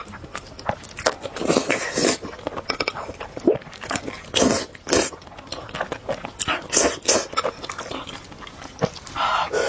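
A person eating spicy noodles close to the microphone: irregular wet slurps, bites and chewing sounds.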